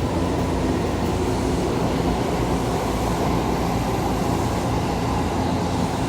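Steady hum and rumble of an electric train standing at the platform, its on-board equipment running, with no distinct events.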